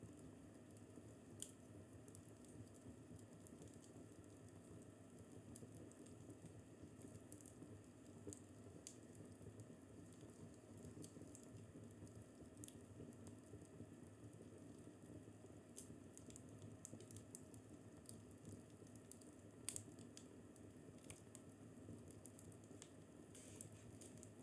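Fireplace fire crackling softly: a steady low hiss with irregular sharp pops and snaps, a few louder ones standing out.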